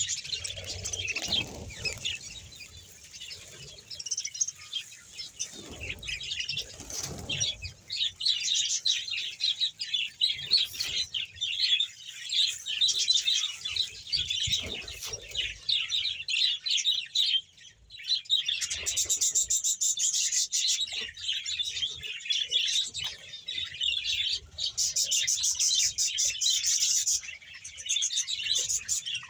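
A colony of around a hundred pairs of budgerigars chattering and warbling together in a dense, continuous chorus, busiest and fastest in the second half. A few low thumps come in the first seven seconds.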